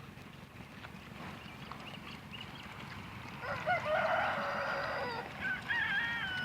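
A rooster crowing once, a long call of about two seconds that drops away at its end, followed by shorter wavering higher calls.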